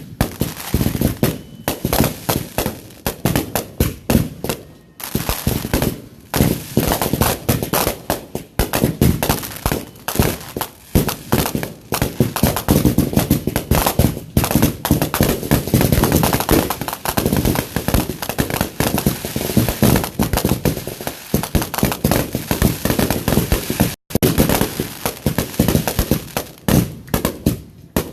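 Backyard fireworks going off in a dense barrage of rapid, sharp bangs and crackling, packed almost without a break through most of the stretch.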